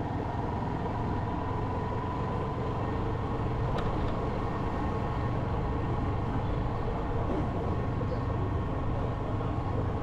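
Motorcycle running steadily on the move, with even road noise and a single faint click about four seconds in.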